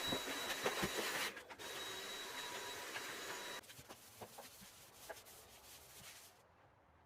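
Vacuum cleaner running with a steady whine, with a short break about a second in, then cutting off about three and a half seconds in. Light scattered rubbing and tapping follow.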